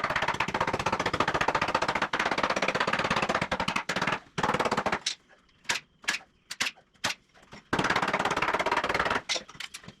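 Cordless impact driver driving screws into wood: a long run of rapid hammering, a few short blips about halfway through, then another run of hammering near the end.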